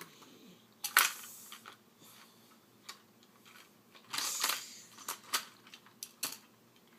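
Scattered clicks and knocks of plastic toy trucks being handled and bumped together, the loudest about a second in, with a short scraping rustle about four seconds in.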